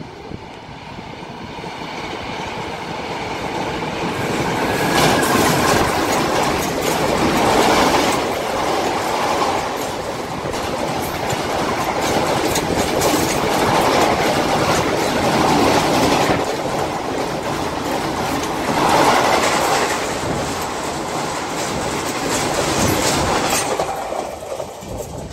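Indian Railways express passenger train passing close by on a bridge. It builds up over the first few seconds as it approaches, then the wheels clatter on the rails, swelling and easing every few seconds as the coaches go by, and it falls away near the end.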